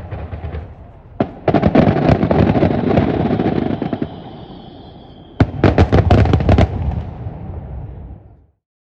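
Festival fireworks finale: a fast run of crackling bangs, a thin whistling tone over it, then a second volley of sharp bangs that dies away before the sound cuts off near the end.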